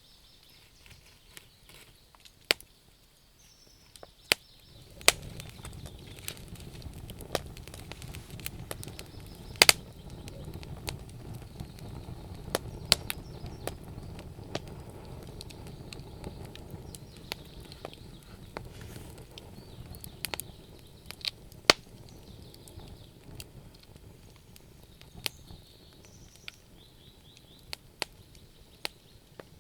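Wood fire crackling, with irregular sharp pops and snaps from the burning logs. A low rushing noise swells about five seconds in and eases off again about two-thirds of the way through.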